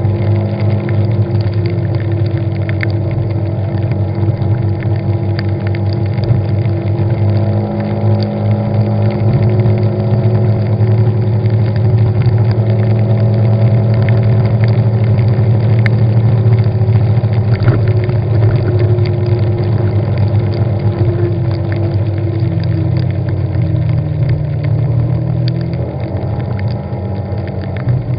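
Car engine running while driving, a steady drone whose pitch drifts slightly up and down with speed.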